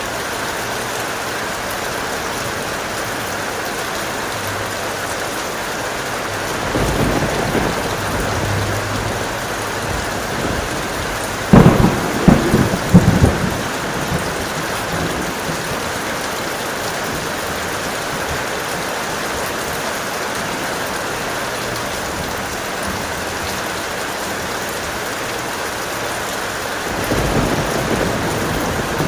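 Heavy rain falling steadily, with thunder: a low rumble about a quarter of the way in, a loud close crack and rumble of several quick peaks just before the middle, and another rumble building near the end.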